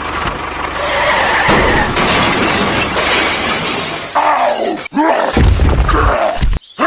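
Loud crashing, shattering noise lasting about four seconds. It is followed by short exclaiming cries that rise and fall in pitch, with a low rumble between them.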